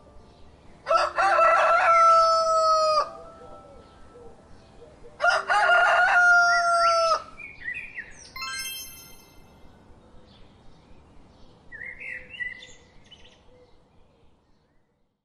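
Rooster crowing twice, each crow about two seconds long, followed by a few fainter, shorter bird chirps.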